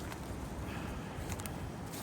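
Steady outdoor wind noise, with a few faint clicks about halfway through.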